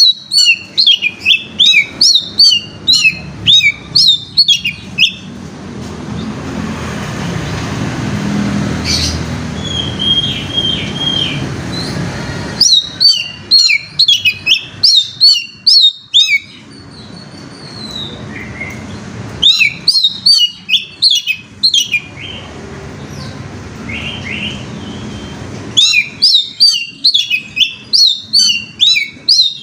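Oriental magpie-robin (kacer) singing in fast bouts of sharp, sweeping high chirps, four bouts of a few seconds each, with a low steady background hum and a few single whistled notes in the gaps.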